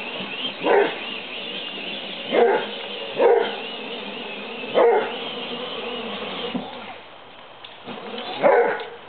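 A hound dog barking five times, about a second or more apart.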